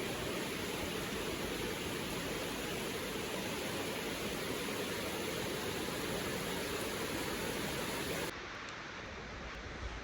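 Steady rushing of river water. About eight seconds in, it drops abruptly to a quieter, duller rush.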